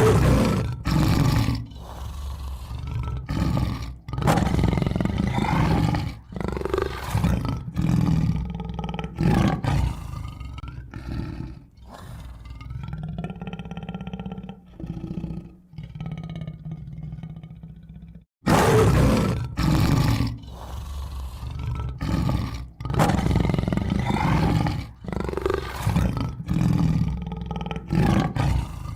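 Tiger roaring and growling over and over, each call lasting a second or two. About eighteen seconds in, the sound cuts out briefly and starts again loud, as if the recording restarts.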